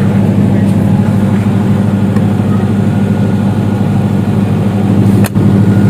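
Generator set engine running steadily at its fixed 1500 rpm, a constant low hum.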